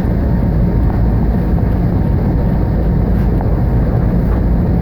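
Train running: a steady low rumble.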